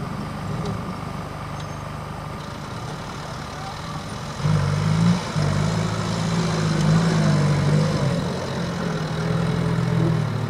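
Land Rover Series 109 engine pulling at low revs as the truck crawls over dirt mounds off-road, getting louder about four and a half seconds in as it takes throttle up a mound.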